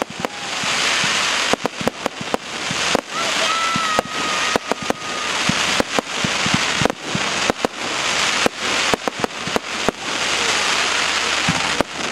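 Fireworks display: a continuous crackling hiss broken by many sharp bangs in quick, irregular succession.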